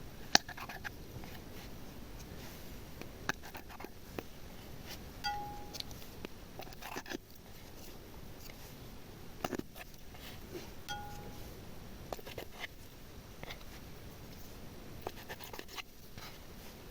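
Light taps and clicks of small hard objects being handled and set down, scattered irregularly, with three short ringing clinks about six seconds apart.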